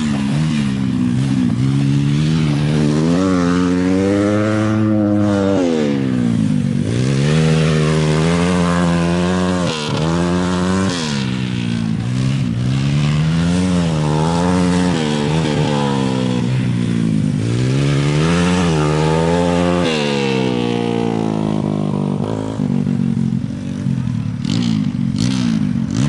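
Motorcycle engines racing on an ice track, the revs climbing and falling again and again as the bikes accelerate and back off. After about twenty seconds the engine sound settles lower and steadier, with a few sharp clicks near the end.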